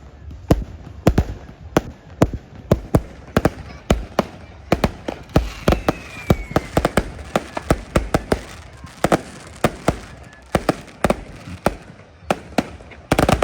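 Fireworks display: a steady, irregular run of sharp bangs and cracks, a few every second, with a dense cluster of bangs near the end and a faint falling whistle about six seconds in.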